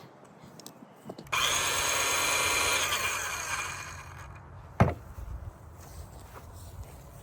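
RYOBI 18V ONE+ 4-1/2-inch cordless circular saw starting suddenly, running with a high whine for about two seconds, then winding down. A single sharp knock follows about a second later.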